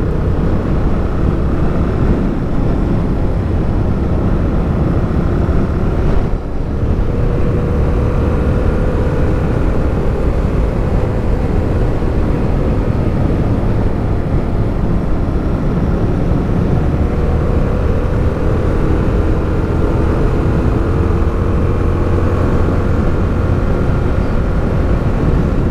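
Suzuki motorcycle engine running steadily under way uphill, its pitch drifting slowly up and down with engine speed, with a brief dip about six seconds in.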